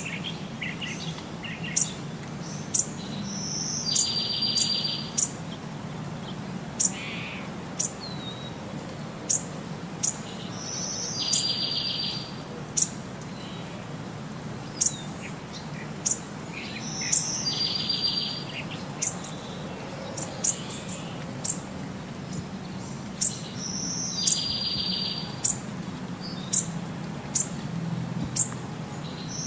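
Birdsong: scattered short, high chirps, and a fast trill about a second long that comes back every six or seven seconds.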